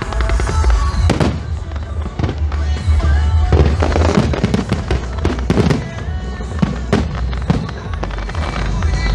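Aerial fireworks shells bursting in a quick, irregular series of sharp bangs and crackles over a steady low rumble.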